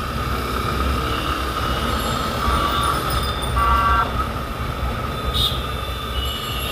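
Street traffic heard from a riding motorbike: a steady low rumble of engines and road noise, with a vehicle horn tooting briefly about three and a half seconds in.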